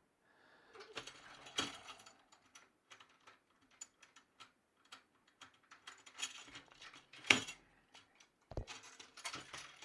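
Metal snare-drum tension rods being worked loose and out of their lugs by hand: irregular small clicks, scrapes and clinks of metal on metal, with a sharper knock about seven seconds in.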